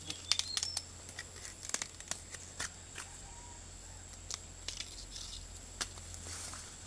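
Irregular sharp clicks and crackling, over a faint steady high-pitched tone.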